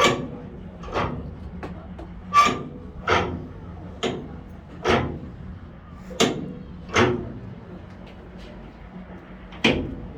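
A series of about nine hollow knocks or thuds, often in pairs under a second apart, over a steady low hum.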